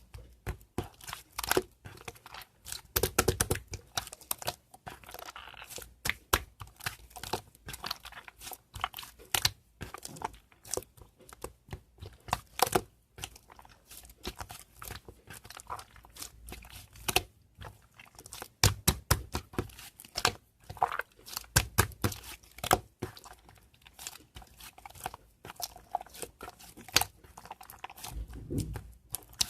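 Slime being kneaded and mixed by hand, giving dense, irregular crackling and crinkling clicks, with louder squelching clusters now and then.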